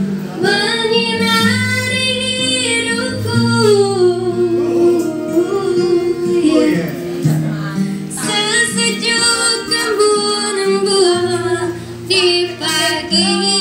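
Music: a woman singing long, gliding notes over an acoustic guitar.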